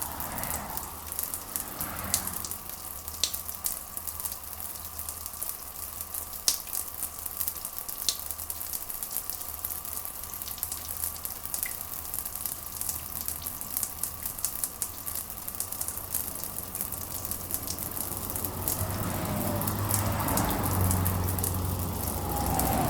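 Steady rain: an even hiss full of small crackling drop ticks over a low rumble. Near the end a deeper rumble swells up and grows louder.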